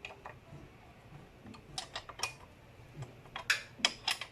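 Irregular metallic clicks and clinks of a wrench working the rear axle nut of a motorcycle as it is tightened after a chain adjustment.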